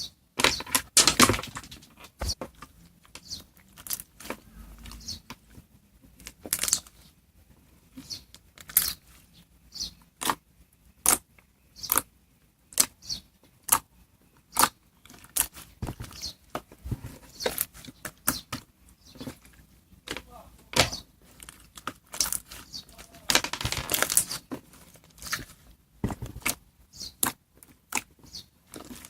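Hands working a slime with mixed-in toppings, making irregular sharp pops and clicks. There is a longer crackling run about a second in and another around 24 seconds.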